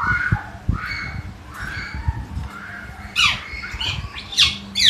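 Common hill myna giving loud, harsh squawks that sweep down in pitch, several in quick succession in the second half.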